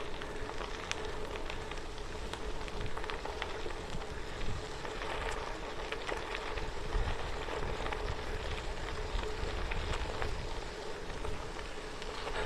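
Bicycle tyres rolling over the gravel of an old railway-bed trail: a steady crackling hiss dotted with small pops and clicks from the stones, over a low wind rumble on the microphone.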